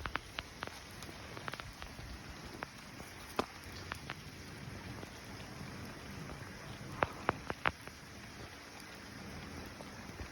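Steady rain pattering, with scattered louder drops landing close by, a quick run of three about seven seconds in.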